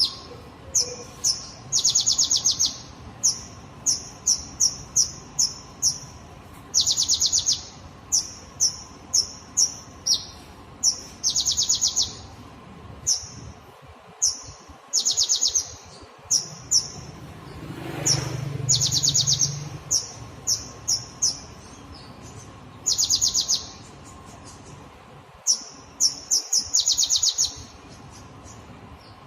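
A songbird gives harsh, sharp, high-pitched chirps in quick series. Every few seconds it breaks into a longer rapid rattling burst, the fast 'tembakan' volley used in masteran tutoring recordings. A low rumble swells briefly around the middle.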